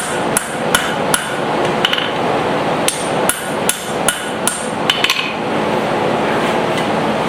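Hand hammer striking hot steel on an anvil, about a dozen ringing blows at two to three a second with a short pause partway, stopping about five seconds in, while a blacksmith forges a small hammer head. A steady rushing noise runs underneath and is a little louder once the blows stop.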